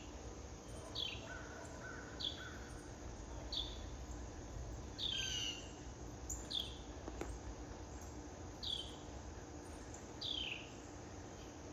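Songbirds singing: a high whistled note slurring downward, repeated about once a second, with a quick run of three shorter, lower notes near the start.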